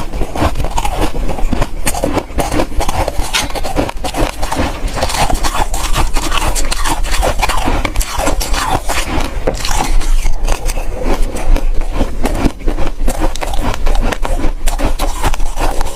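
Soft, powdery ice being chewed: dense, continuous crunching and crackling.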